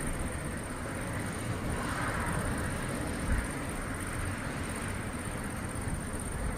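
Outdoor storm ambience: a steady low rumble and noise, with a thin high steady tone throughout and a slight low bump a little past halfway.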